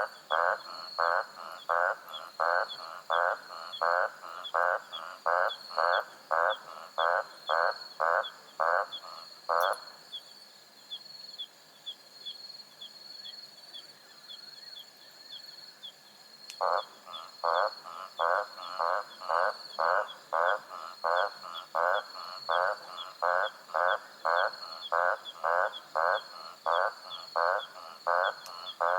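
A frog calling at night in a steady series of short croaks, about one and a half a second, with a pause of about seven seconds near the middle. Under it runs a steady high-pitched chorus of night insects such as crickets.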